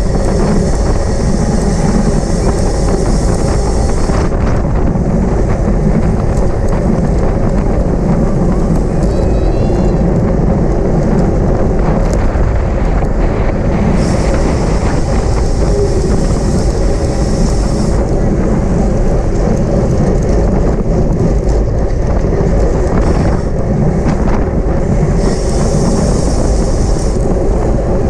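Steady, loud wind rushing over the microphone of a camera riding along on a racing bicycle, with a higher hiss that swells for a few seconds three times.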